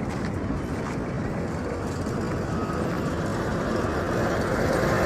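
Road traffic noise, growing louder near the end as a vehicle approaches.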